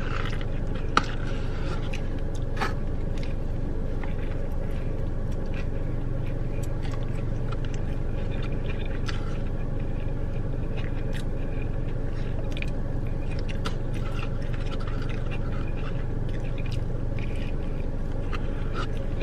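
Close-up chewing and biting of a chicken sandwich, wet mouth sounds and small clicks, over a steady low hum of the car cabin. One sharp click about a second in.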